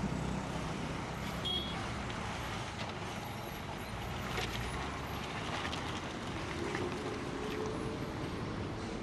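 Heavy lorry engine running low and steady with road noise, a lorry working down a steep ghat road.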